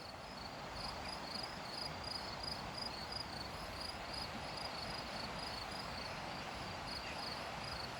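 Crickets chirping steadily: short, high, even pulses a few times a second, over a steady background hiss.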